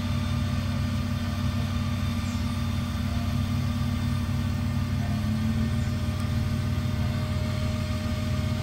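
Vehicle engine running steadily at low revs, a low, even hum with no change in pace.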